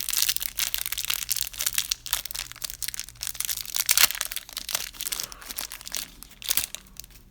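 Plastic packaging crinkling and crackling in irregular bursts as a challenge coin is unwrapped by hand.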